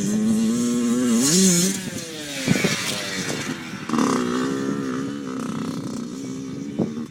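Yamaha YZ80 two-stroke dirt bike engine revving as it is ridden. Its pitch climbs about a second in and then falls away, with a brief hiss around the same time. It climbs again about four seconds in and holds there.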